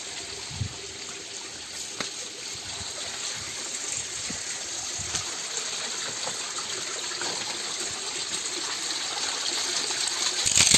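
A clear mountain river flowing over rocks: a steady rush of running water, growing a little louder toward the end, with a sudden louder rush or knock right at the end.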